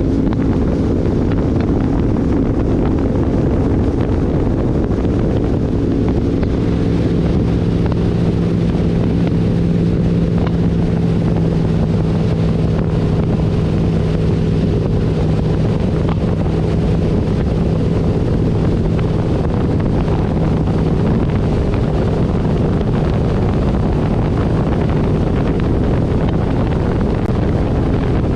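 Twin V8 engines of an Avanti 33 powerboat running steadily under way, with wind on the microphone and rushing water. The engine note shifts slightly about seven seconds in.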